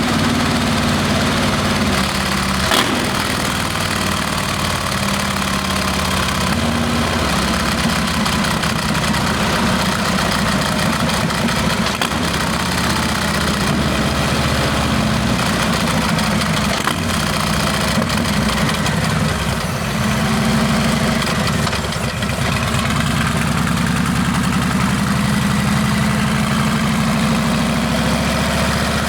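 Harley-Davidson Milwaukee-Eight V-twin running loud through Rinehart exhaust pipes, its low note holding steady and then shifting in pitch several times.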